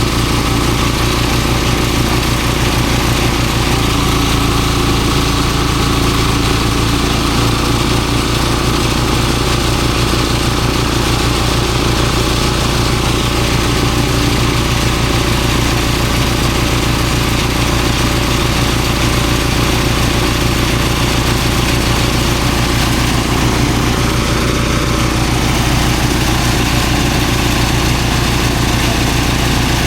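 Engine-driven rice threshing machine running steadily under load, with an even engine hum.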